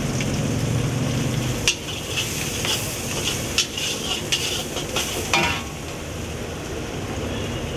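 Onions and green chillies sizzling in hot oil in a kadai. A metal spatula scrapes and knocks against the pan several times in the middle as the mixture is stirred.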